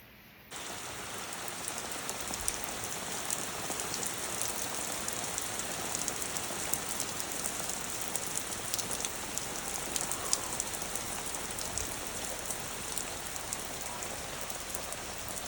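Heavy rain mixed with hail coming down on a surface, a steady hiss dense with fine sharp ticks. It starts abruptly about half a second in.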